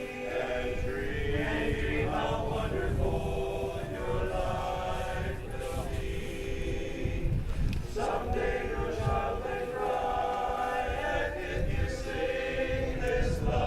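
Men's chorus singing a cappella, holding sustained chords in close harmony with a short break about eight seconds in.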